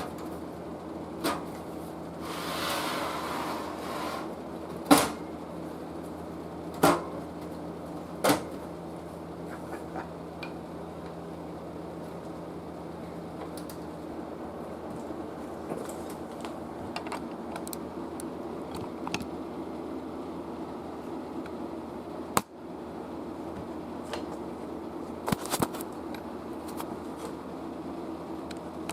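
Steady low electrical hum with a few sharp clicks and knocks scattered through it, a short hiss a few seconds in, and one sharper knock past the middle.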